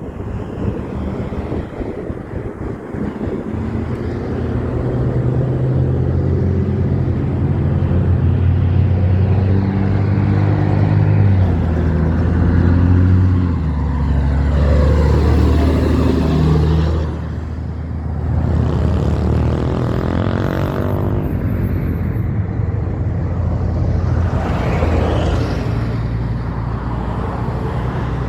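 Diesel semi-truck using its Jake brake (compression-release engine brake) while slowing: a loud, low engine note that steps down in pitch twice partway through. Passing-traffic hiss takes over near the end.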